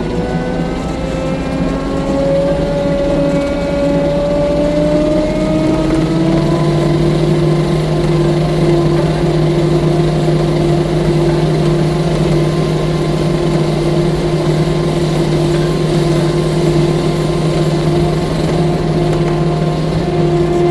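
Diesel engine of a tracked skid steer loader, rising in pitch over the first several seconds, then running steadily at high revs.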